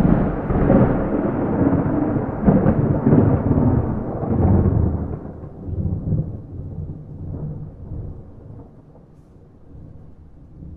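Thunder rolling in a long, loud rumble with rough peaks, without rain; after about five seconds it dies away slowly into a low rumble.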